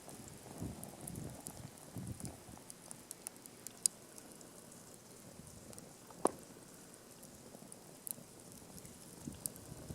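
Wood campfire crackling: scattered small ticks, with two sharper pops about four and six seconds in.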